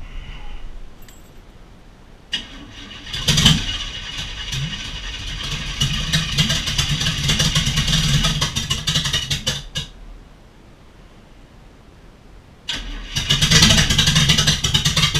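Chevy 350 V8 with open headers cranking over on the starter in two long attempts, the first about seven seconds, the second starting near the end, without catching.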